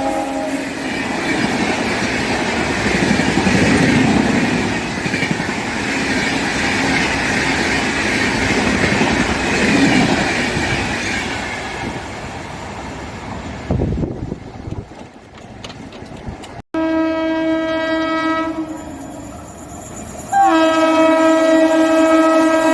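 A train running through the station at speed, its wheels clattering over the rail joints for about twelve seconds before the noise fades. After a sudden cut a train horn sounds, one steady blast of about a second and a half, then a longer steady blast near the end.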